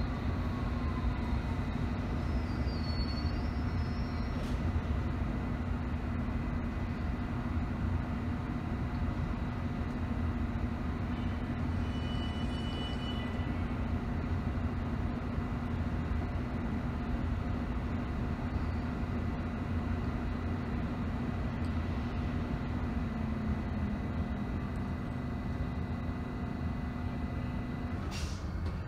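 Interior hum of a London Underground S7 Stock District Line train at a standstill: a low rumble carrying several steady electrical tones from its onboard equipment. A brief high squeal comes about 12 seconds in, and near the end a click as some of the tones cut off.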